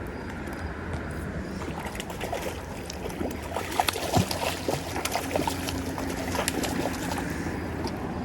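River water running steadily, with a run of splashes and sharp clicks from about two seconds in as a hooked brown trout is brought in at the water's edge.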